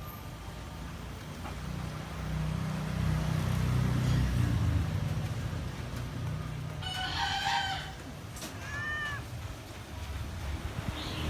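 A rooster crowing once about seven seconds in, with a shorter arched call a little after, over a low rumble that swells and fades in the first half.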